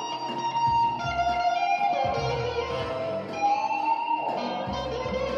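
Electric guitar music: a melody of sustained notes, some sliding up in pitch, over a low bass line.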